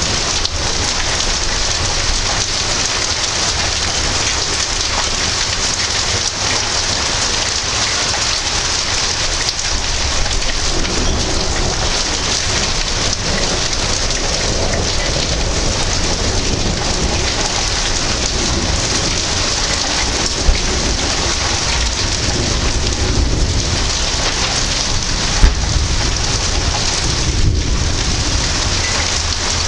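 Heavy thunderstorm: steady rain pouring down on hard surfaces, with deep thunder rumbling in the second half. There are two short sharp ticks partway through, about five seconds apart.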